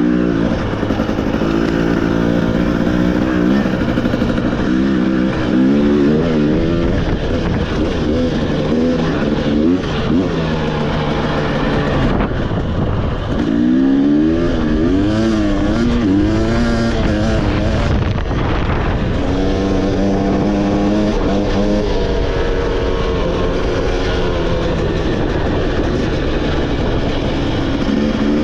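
Motorcycle engine running under constant throttle changes while being ridden on a dirt trail. Its pitch rises and falls again and again, loudest and most varied around the middle.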